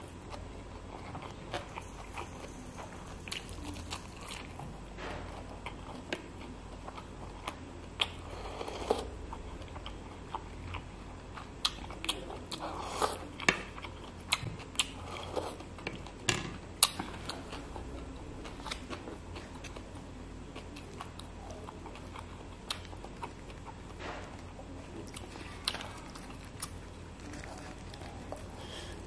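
Close chewing and wet mouth sounds of a person eating rice and snakehead fish in yellow curry by hand, with many short sharp smacks and clicks that are busiest and loudest in the middle.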